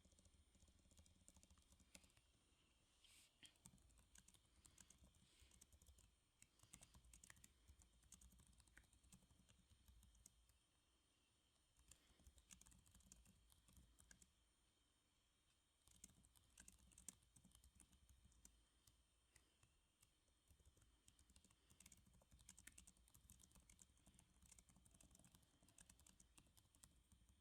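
Faint typing on a computer keyboard: runs of quick keystrokes broken by short pauses.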